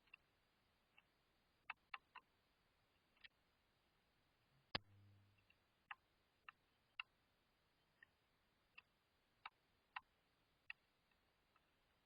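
Faint, sharp clicks at irregular intervals, roughly one a second. About five seconds in comes one louder knock, followed by a brief low hum.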